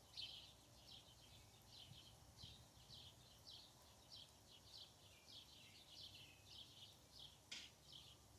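A small bird chirping faintly and repeatedly, short high chirps about three a second, with one sharper note near the end.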